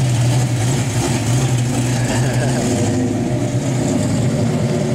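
Car engine running loudly at high, steady revs during a burnout, with a dense hiss over it.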